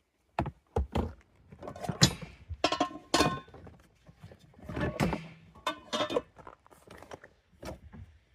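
Cooking utensils and pots being handled in a storage bin: a string of irregular knocks and clatters, some with a short metallic ring.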